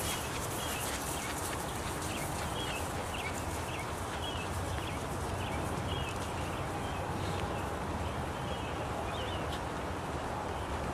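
Outdoor ambience with a steady low rumble, over which a small bird repeats short high chirps about once a second.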